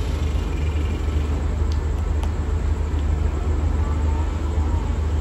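Steady low rumble of a diesel-hauled passenger train pulling slowly into the station, with a few faint clicks about two seconds in.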